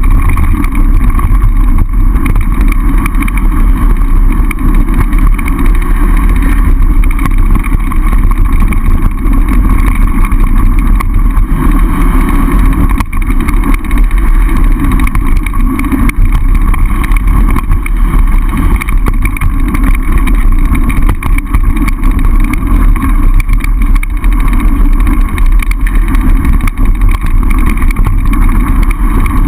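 Steady, loud rumble of wind buffeting the camera microphone together with tyre and frame noise from a mountain bike rolling downhill on a dirt trail.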